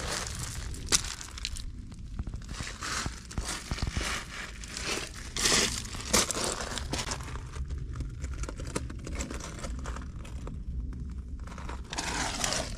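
Loose pebbles and gravel crunching and clicking as someone moves over and sorts through a stony bed, in short irregular crunches with a few sharp clicks.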